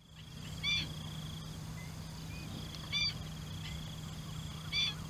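Three short bird calls, about two seconds apart, over a steady high buzz and a low hum in the background.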